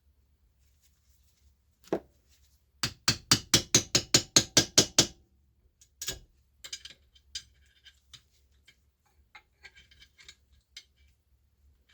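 A single knock, then a quick run of about a dozen sharp hammer taps at roughly six a second, knocking out the glued-in snout (pulley) seal of an Eaton M62 supercharger; light metal clicks and rattles follow.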